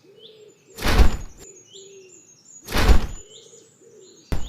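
A young Philippine eagle flapping its wings as it tries to fly: two loud whooshing wing-beats about two seconds apart, then a short knock near the end. Faint forest birdsong runs underneath.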